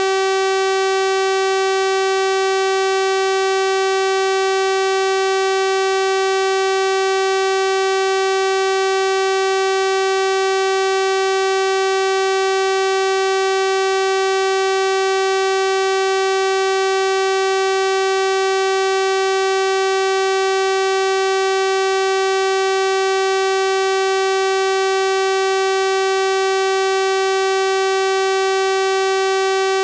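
Steady synthesized 384 Hz sawtooth-wave tone, held without change, a bright buzzy pitch rich in overtones.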